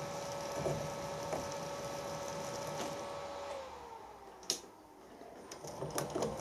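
Milling machine spindle, driven by a three-phase motor on an inverter, running with a steady whine that winds down in pitch about three and a half seconds in. A sharp click follows, then a few knocks near the end.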